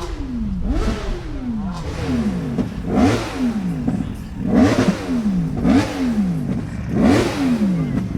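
Car engine revved hard over and over, quick throttle blips roughly once a second, each rising sharply in pitch and falling away as the revs drop.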